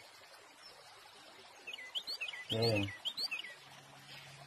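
Small bird chirping: a run of short, sharp chirps in quick pairs, about two pairs a second, for a couple of seconds in the middle, over a quiet background hiss.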